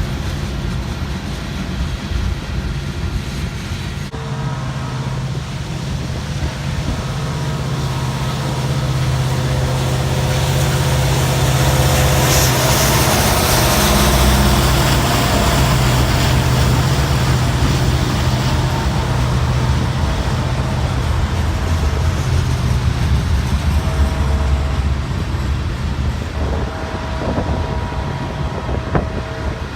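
A train passing, its diesel locomotive's engine drone and rail noise growing louder to a peak about midway, then easing off slowly.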